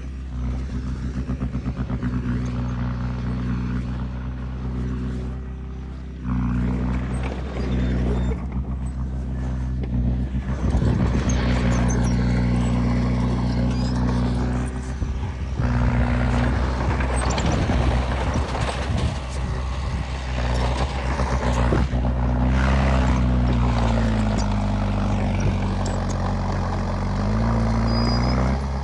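Diesel engine of a Komatsu D20P bulldozer running, stepping up in speed about six seconds in, with a rattling, clanking noise through the middle. Near the end the engine pitch dips and climbs back.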